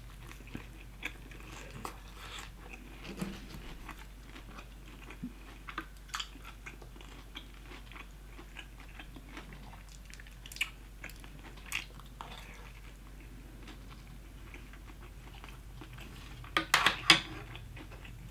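Close-up chewing and biting of crispy fried chicken, with scattered small crunches and mouth clicks and a burst of louder crunching near the end.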